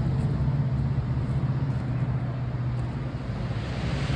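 A car engine running with a steady low hum that drops away about three seconds in, over outdoor background noise.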